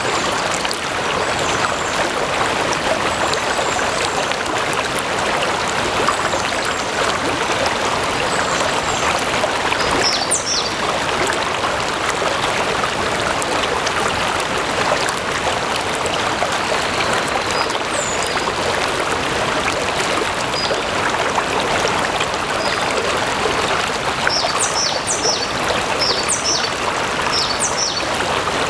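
A small stream babbling and splashing steadily over stones. A bird gives short high chirps once or twice along the way and a quick run of them near the end.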